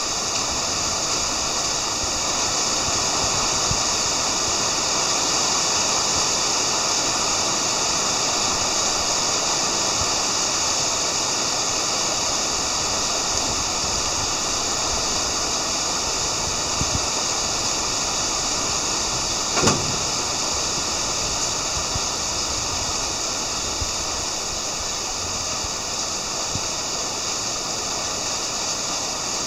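Steady heavy rain, an even hiss that holds all through. A single sharp knock about twenty seconds in.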